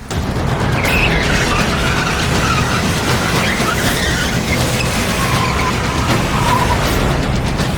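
Cars driven hard in a chase, tyres squealing in wavering high screeches over dense engine and road noise that starts abruptly.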